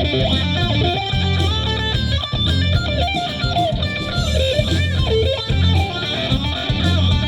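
Live rock band playing an instrumental stretch: electric guitar over bass guitar and drums with a steady beat.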